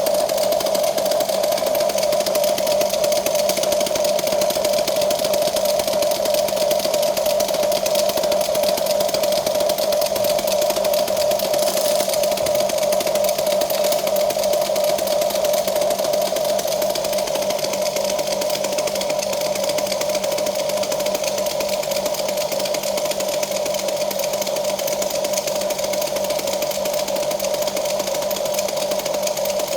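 Small electric motor of a Huina radio-controlled toy excavator running, a steady whine with no breaks.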